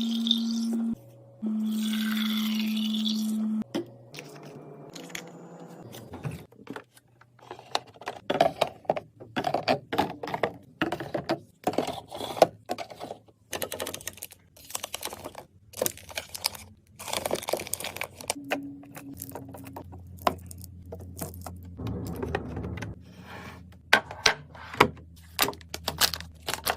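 Items being handled and set into a mini fridge: a long run of quick clicks, knocks, taps and scrapes. Near the start there are two steady low hums, about one and two seconds long.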